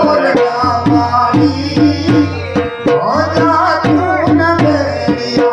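Gujarati folk music: a dhol drum beating a steady rhythm of about four strokes a second under a wavering, gliding melody.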